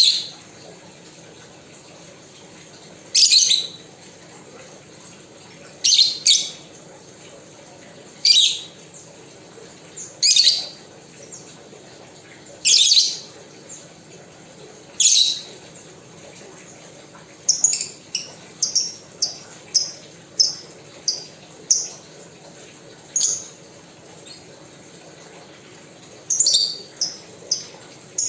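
A pet bird calling with loud, shrill calls, one about every two to three seconds. About two-thirds of the way in, these change to quicker runs of short chirps.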